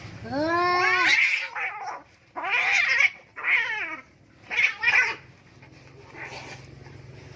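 Male cats caterwauling in a fight standoff: one long yowl that rises and falls in pitch, then several harsher, rasping yowls, the last two short.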